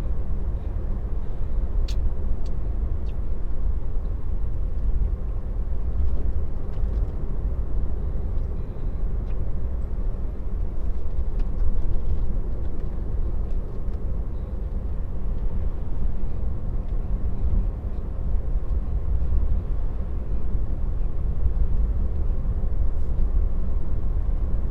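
Steady road and tyre rumble inside the cabin of a moving Tesla, with no engine note.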